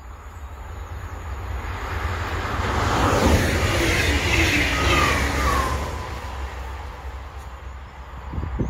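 Deutsche Bahn double-deck Intercity 2 train passing at speed. Rumble and rail noise build to a loud peak a few seconds in and then fade, with a short falling whine as it goes by.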